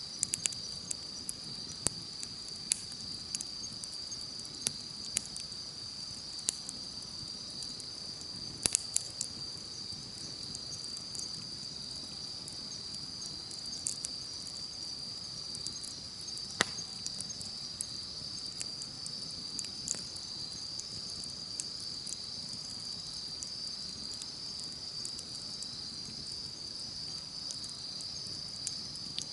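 Campfire crackling, with scattered sharp pops and one louder pop a little past the middle, over a steady high-pitched chorus of insects.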